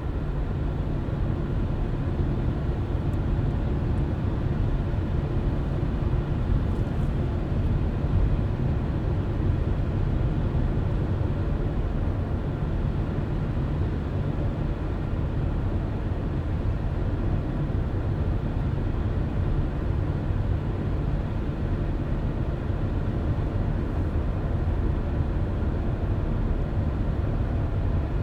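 A car driving steadily along a road: an even rumble of tyres on the road with a low engine hum, unchanging throughout.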